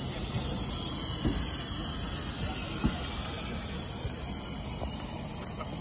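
Wooden-bodied heritage railway coaches rolling past: a low rumble of wheels on rail, with a few sharp knocks, under a steady high hiss.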